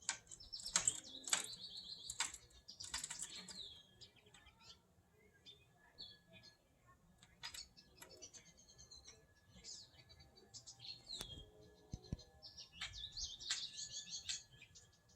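A small bird chirping in quick bursts of short, repeated high notes, loudest near the start and again near the end, with a few sharp taps among them, as of a beak pecking at chrome.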